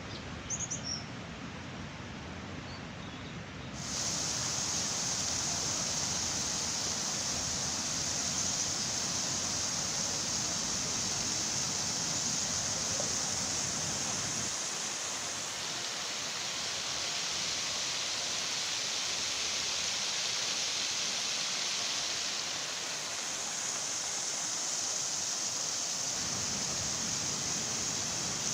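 Steady rush of flowing water, which becomes louder and hissier about four seconds in. A few faint bird chirps are heard near the start.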